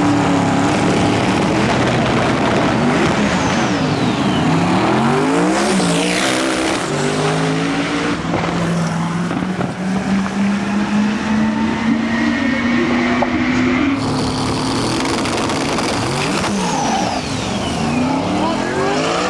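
Manual-transmission drag race cars accelerating hard down the strip. Engine pitch climbs and falls back at each gear shift, several times. One long pull climbs slowly, and the sound changes abruptly about two-thirds of the way through.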